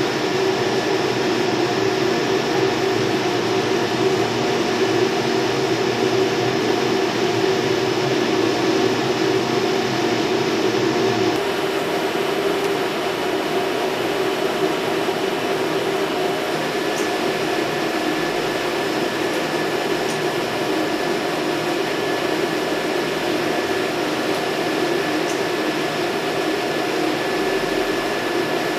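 Steady hum and whir of running machinery, with a few constant tones over a noisy whoosh. The sound changes abruptly about eleven seconds in, then holds steady again.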